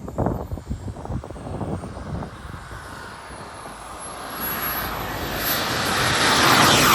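JetCat P300 Pro turbine of a BVM Desperado RC jet: a whining roar that grows steadily louder, its high whine rising in pitch, and peaks near the end as the jet comes past. Irregular low thumps sound during the first two seconds.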